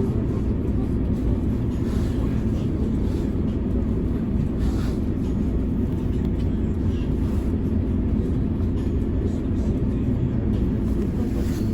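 Mercedes-Benz O405N2 city bus heard from inside the cabin while under way: a steady low drone of engine and road noise, with a few faint light rattles.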